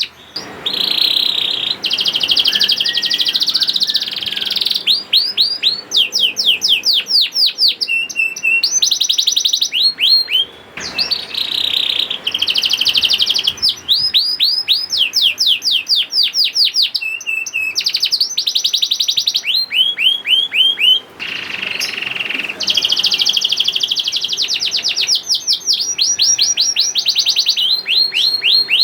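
Canary singing continuously in long, fast trills, each a rapid run of the same sweeping note before switching to the next. The song breaks off briefly three times: about half a second in, about ten seconds in and about twenty-one seconds in.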